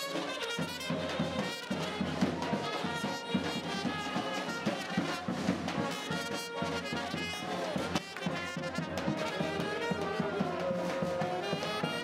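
Brass band music: trumpets and other horns playing a tune together over a steady beat.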